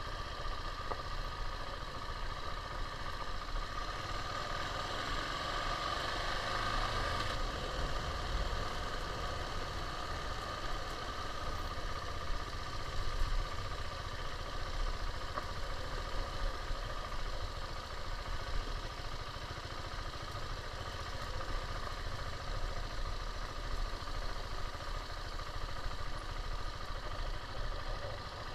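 KTM 690 single-cylinder motorcycle engine running steadily.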